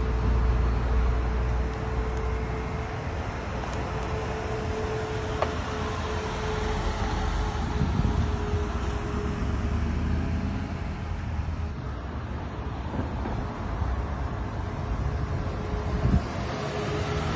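Motor vehicle driving: steady engine rumble and road noise, with a thin constant whine running under it.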